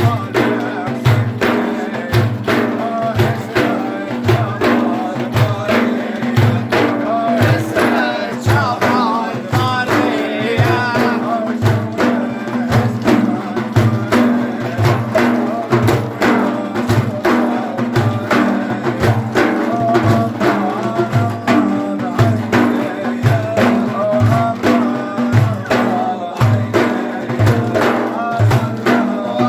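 Devotional praise song (madih) with drums beating a steady, fast rhythm and a low drum pulse under singing voices.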